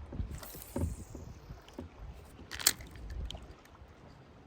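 Small knocks and light water sounds around a fishing kayak, with one sharp click about two and a half seconds in.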